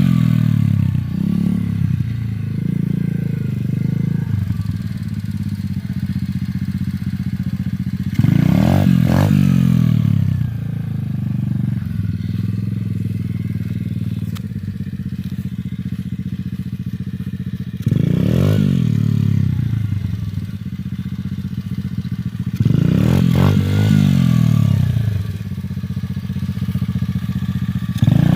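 Dirt bike engine running steadily, revved up sharply four or five times, every five to ten seconds, the pitch climbing and falling back each time: throttle bursts as the rider tries to lift the front wheel into a wheelie.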